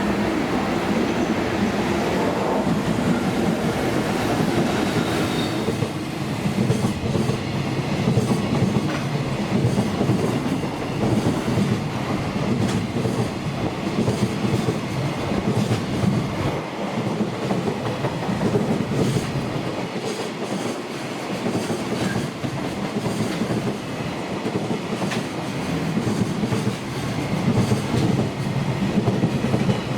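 A freight train's wagons rolling past at speed, their wheels clattering over the rail joints again and again as each wagon goes by.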